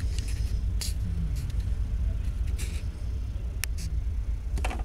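Freight train of boxcars rolling past, a steady low rumble with short, sharp high-pitched clicks and squeaks scattered through it.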